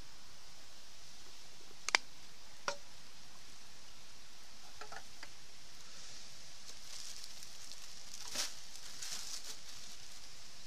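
Campfire cooking sounds: a steady faint hiss with two sharp pops about two seconds in, then a cluster of crackles and sizzling near the end.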